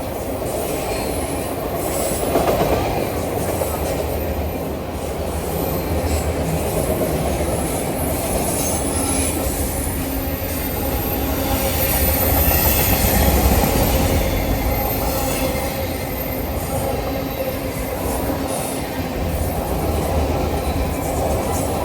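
A train rolling steadily past on the line: continuous rumble and clatter of wheels on rails, swelling to its loudest a little past halfway, with thin high-pitched wheel squeal.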